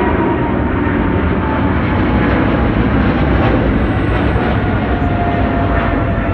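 Jet airliner passing close by, a loud steady roar with a faint whine that slowly drops in pitch.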